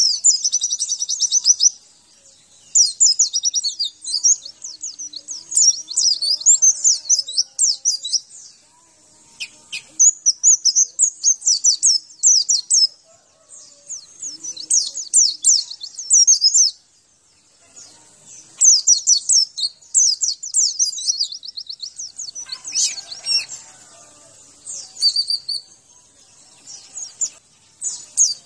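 White-eye (pleci, Zosterops) singing: runs of fast, high twittering and warbling phrases a few seconds long, broken by brief pauses.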